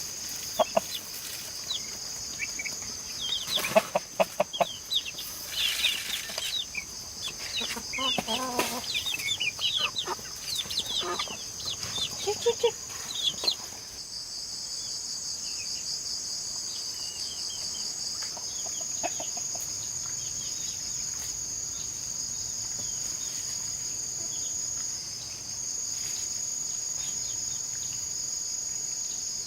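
Chickens clucking, with many short sharp calls over a steady high-pitched drone of insects. About halfway through the clucking stops and only the insect drone goes on.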